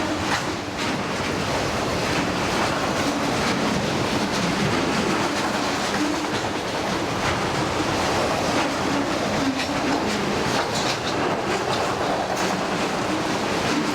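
Freight train cars rolling past at steady speed: a continuous rumble of steel wheels on rail, with the clickety-clack of wheels going over rail joints.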